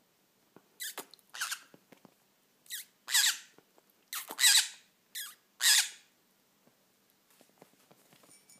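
Green-cheeked conure giving a string of about seven short, harsh squawks, the loudest two about halfway through, then faint small clicks and scratches near the end.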